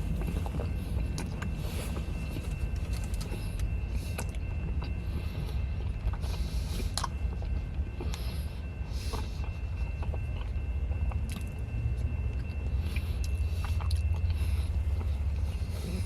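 Low, steady rumble of a car heard from inside the cabin, growing louder about three-quarters of the way through, with scattered small clicks and rustles.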